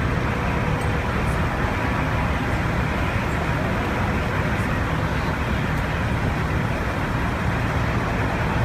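Steady low rumble and hiss of airliner cabin noise: the aircraft's jet engines and air system running while it sits or taxis on the ground.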